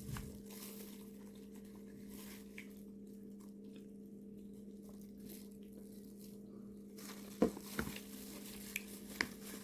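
Quiet eating: faint chewing and small clicks and rustles of food being handled, with a few sharper ticks in the second half, over a steady low hum.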